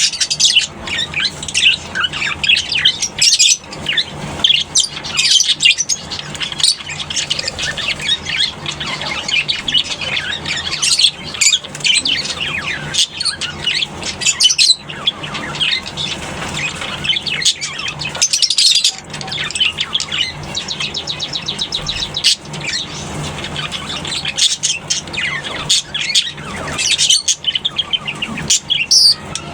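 Colony of lovebirds chattering and squawking, with many short, high, overlapping calls that never pause, over a faint steady low hum.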